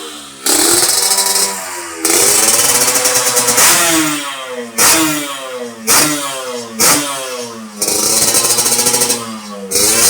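Yamaha RX-King's 135 cc two-stroke single-cylinder engine being test-revved after tuning, the throttle blipped again and again so the note climbs and drops. Some blips are short and two are held longer, with a rattly, buzzing exhaust.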